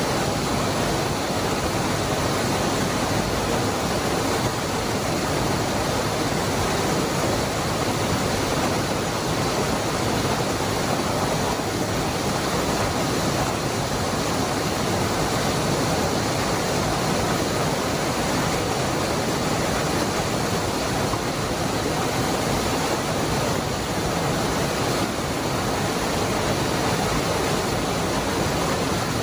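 Waterfall, the Cascada del Hervidero, rushing in a steady, unchanging wash of water noise.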